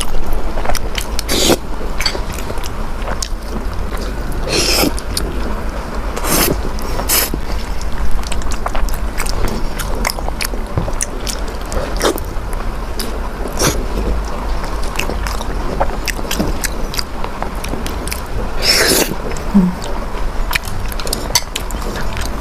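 Close-up eating sounds: chewing, with short clicks and clinks of a utensil against a bowl every second or two, over a steady low hum.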